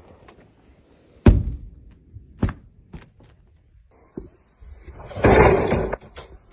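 A loud sudden thump about a second in, then a second knock and a few fainter ones, followed near the end by a short, loud burst of noise about a second long.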